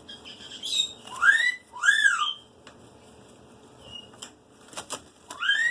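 Black-headed caique giving short whistled calls, each rising and then falling in pitch, three of them with a longer gap before the last, and a few sharp clicks in between.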